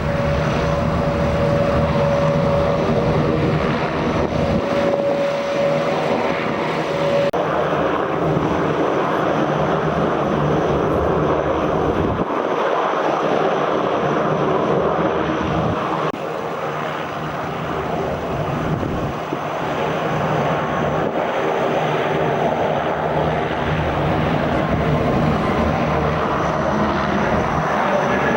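Jet engines of an Airbus A320neo running steadily, with a steady whine in the first few seconds.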